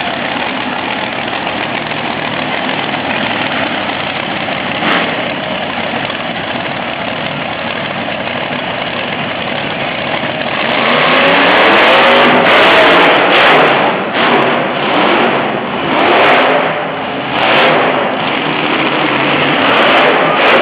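Monster truck engine running under a steady noise, then revving hard from about halfway through, its pitch climbing, followed by a run of repeated surges roughly every second.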